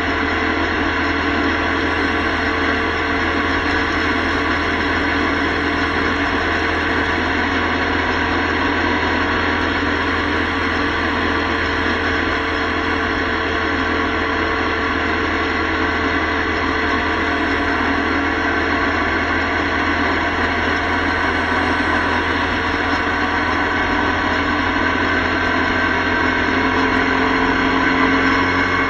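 Motorcycle engine running at a steady highway cruising speed, a constant drone over rushing wind and road noise, heard from a camera mounted on the bike.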